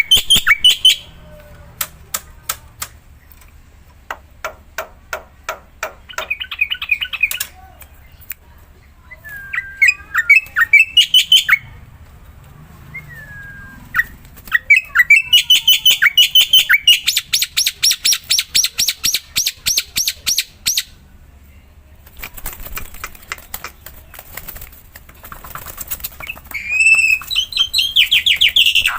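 Black-winged myna (jalak putih) in loud, vigorous song: bursts of rapid dry clicking rattles mixed with short whistled and squawking notes, with one long fast rattle lasting several seconds about halfway through.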